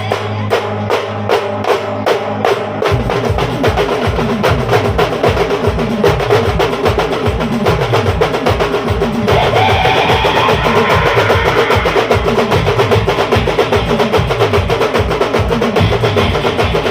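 A band playing music driven by fast, steady drumming. Deep drum strokes join about three seconds in, and a melody line rises above the drums in the middle.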